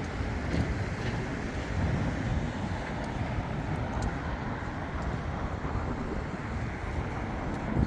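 Outdoor city ambience: a steady low rumble of distant traffic mixed with wind buffeting the microphone.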